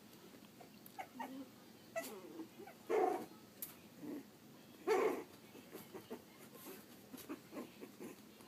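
Young pug/dachshund mix puppies whimpering and squeaking, with two louder cries about three and five seconds in.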